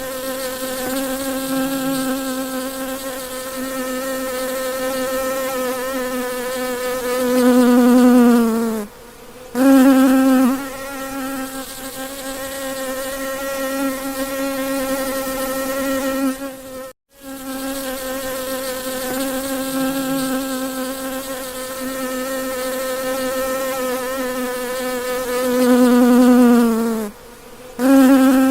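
A flying insect's wing buzz, steady and low-pitched. Twice it sags in pitch and breaks off for a moment before starting again.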